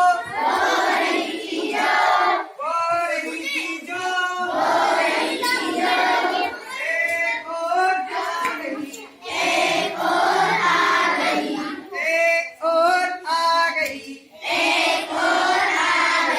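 A group of children singing a Hindi children's rhyme in chorus, in phrases of a second or two each.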